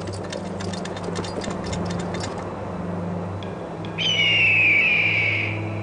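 Horse hooves clattering on stony ground over a steady low hum, then about four seconds in a long, slowly falling bird cry, the loudest sound, which fades out near the end.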